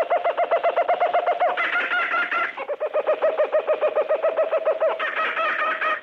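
Birds trilling: a fast, even run of repeated low chirps, about eight a second. Higher-pitched calls join in twice, about one and a half seconds in and again near the end.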